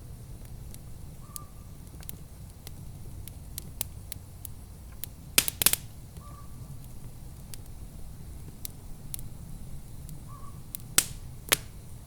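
Wood fire crackling in a fireplace, with scattered sharp pops over a low steady rumble; a quick cluster of loud pops comes about five and a half seconds in, and two more near the end.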